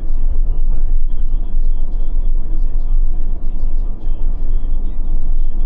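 Scania K450 bus driving, its engine and road noise making a steady, loud, deep rumble.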